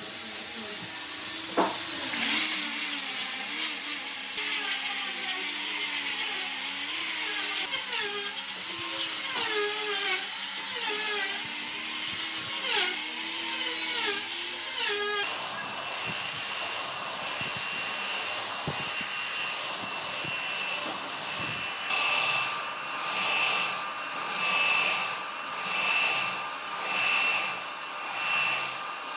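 Power tools working wood. In the first half a motor's pitch wavers up and down. About halfway it changes abruptly to a steady high whine that pulses about once a second.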